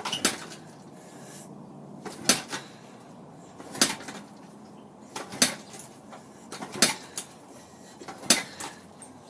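Six kicks on a 110 cc motorcycle's kickstarter, about one every one and a half seconds, each a sharp metallic clank with a smaller knock as the lever springs back. The engine turns over but never catches: the bike will not start.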